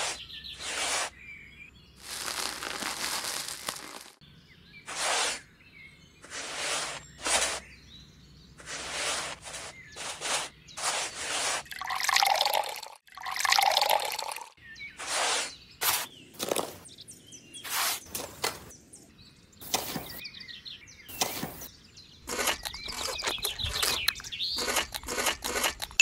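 Small metal toy shovel scooping and scraping dry sand and cement in repeated short strokes, with water poured into a hollow in the pile about halfway through, splashing and gurgling.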